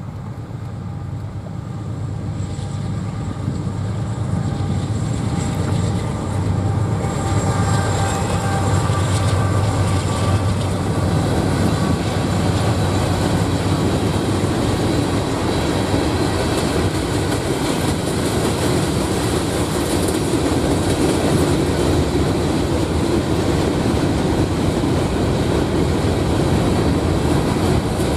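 Norfolk Southern freight train passing: the diesel locomotive's engine drone grows louder over the first several seconds, then gives way to the steady rumble and wheel clatter of a long string of open hopper cars rolling by.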